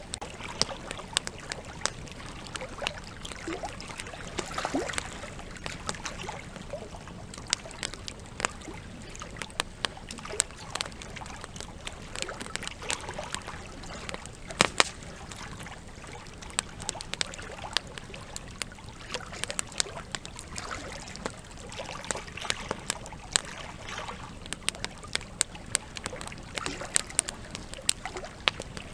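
Campfire crackling with frequent irregular sharp pops, over a steady rush of flowing river water. The loudest pop comes about halfway through.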